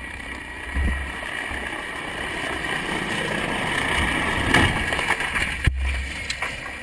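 Steady vehicle engine noise with wind buffeting the microphone. It rises a little about four seconds in, then breaks off abruptly near the end.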